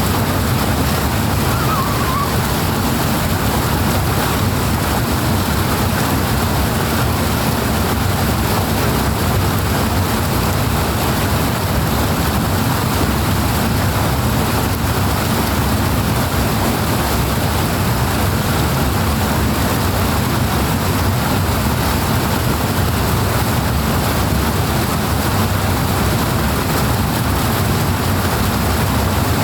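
Steady, loud rush of flowing water, an unbroken roar with no separate splashes.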